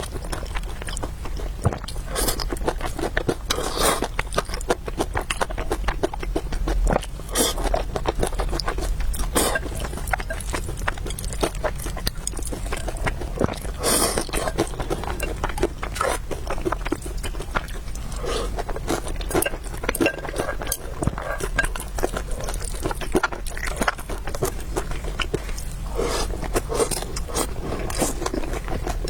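A person eating noodles and meatballs close to the microphone, with continuous wet chewing, biting and mouth smacks and a few longer slurp-like sounds.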